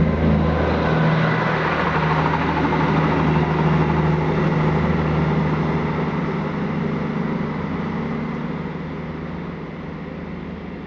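Diesel engines of three coupled Class 66 locomotives running steadily under power, a deep engine note that fades away over the last few seconds as the locomotives move off into the distance.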